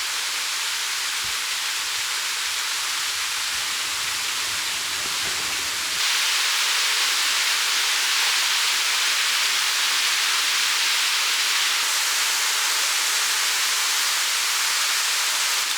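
Mountain stream water rushing steadily. About six seconds in the sound shifts abruptly, becoming a little louder and losing its low rumble.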